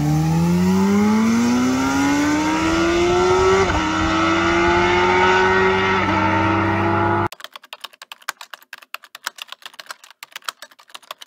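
Sport motorcycle engine accelerating hard through the gears on a drag pass, its pitch climbing steadily with two brief dips at the upshifts, about three and a half and six seconds in. The engine sound cuts off suddenly a little past seven seconds, and rapid irregular clicking follows.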